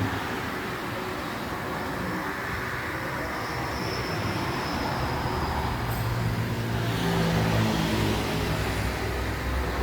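BMW E36's turbocharged M50B25 straight-six running through a newly fitted full exhaust. Its deep, steady engine note grows much stronger about halfway through.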